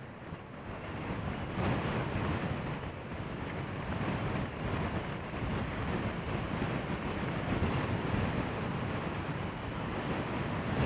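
Gale-force wind buffeting the microphone: gusty wind noise that grows louder about a second and a half in.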